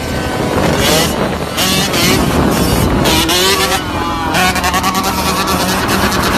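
Motorcycle engine revving up and down in loud rising and falling sweeps. About four seconds in, it changes to a fast, even pulsing run.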